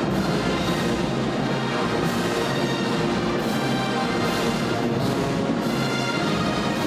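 A band playing a piece, brass instruments over drums, loud and continuous.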